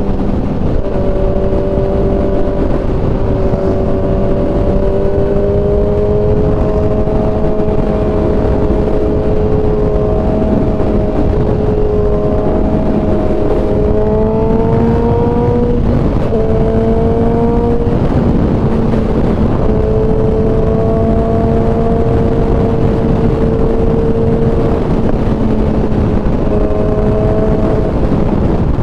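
Kawasaki ZX-10R's inline-four engine running at a steady cruise under a heavy rush of wind noise. The revs climb gently about halfway through, drop suddenly, dip once more a couple of seconds later, then settle steady again.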